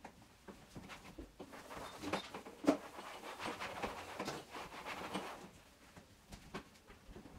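Irregular light knocks, clicks and rustling of household items being handled, busiest in the middle and thinning out near the end.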